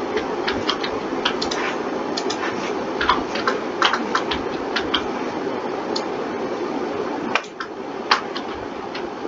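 Irregular clicks of a computer keyboard and mouse, several a second at times, over a steady background hiss that drops slightly about seven seconds in.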